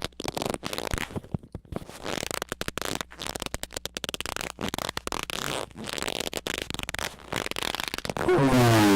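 Harsh, deliberately annoying noise effects: rapid, irregular crackling and sputtering, then near the end a loud squeal that falls in pitch.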